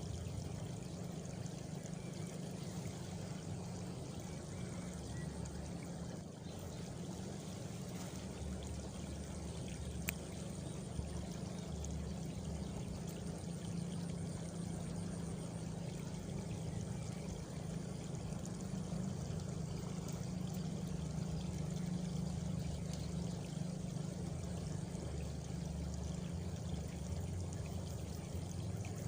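Steady running water, a continuous trickling flow like a small stream, with a faint high insect trill for a few seconds near the middle.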